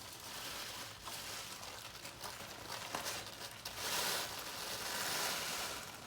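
Plastic bag crinkling and rustling as crushed Takis chips are poured and shaken back into it, louder for a couple of seconds about four seconds in.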